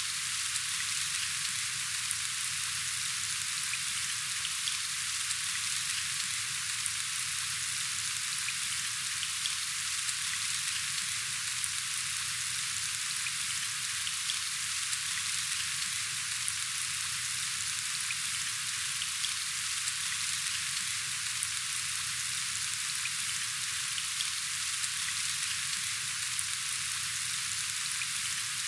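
Steady rain falling: a dense, even hiss with small scattered ticks of individual drops.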